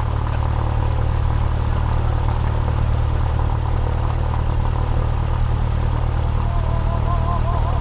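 Cessna 172R's four-cylinder Lycoming engine and propeller idling steadily, a constant low drone heard from inside the cabin. A faint wavering tone comes in near the end.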